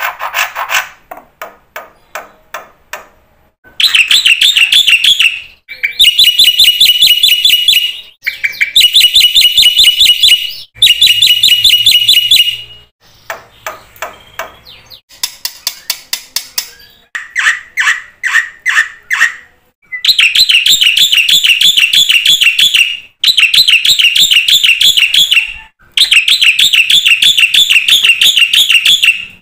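Black-winged myna (jalak putih) singing loudly: bouts of rapid, buzzy trilling a second or two long, one after another with short pauses, broken up by runs of quick separate notes.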